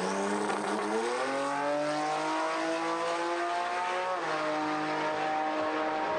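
A car engine accelerating hard, its pitch climbing steadily, then dropping sharply at an upshift about four seconds in before climbing slowly again.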